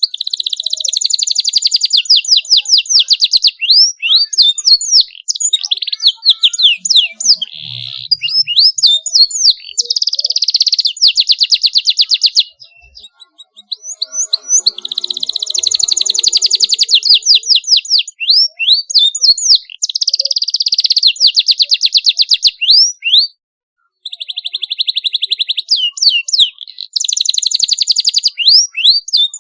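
Domestic canary singing a long, loud, high-pitched song of rapid rolling trills and quick sweeping whistled notes, breaking off briefly twice.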